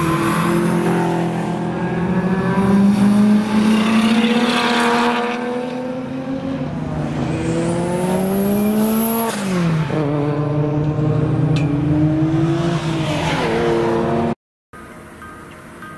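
Single-turbo Nissan R33 GT-R's RB26 straight-six under load, its note climbing slowly in pitch with a high turbo whistle rising along with it, then falling sharply about nine seconds in as the throttle comes off, before climbing and dropping again. The engine sound cuts off suddenly near the end.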